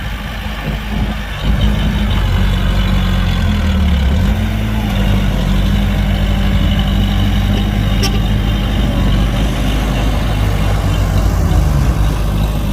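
Heavy diesel engine of a dump truck or bulldozer running steadily, its pitch shifting about four seconds in.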